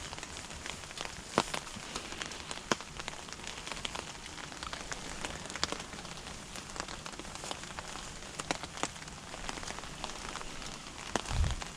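Steady rain falling, with many scattered sharp drip ticks; a brief low thump near the end.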